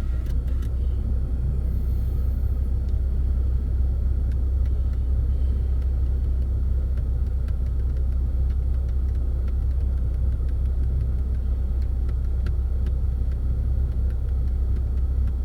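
Steady low rumble of a vehicle running, with no change in pitch or level.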